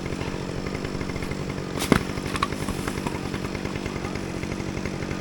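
Two-stroke chainsaw running steadily at idle, not cutting, with a single sharp knock about two seconds in.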